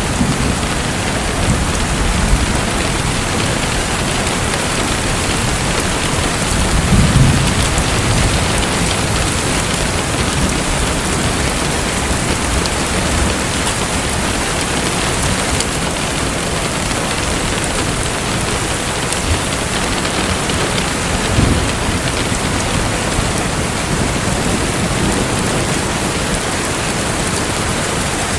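Steady hiss of splashing water, with a low rumble swelling about 7 seconds in and again briefly around 21 seconds.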